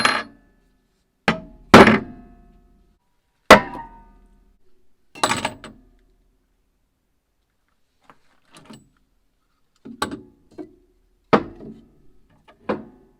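Irregular series of about ten sharp metal knocks and clinks, some ringing briefly. The first few are the loudest and the later ones softer and more scattered, like a hammer striking metal in a workshop.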